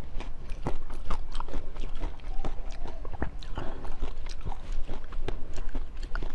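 Close-miked eating: a person biting and chewing food, with many quick, crisp crunches and clicks in a steady stream.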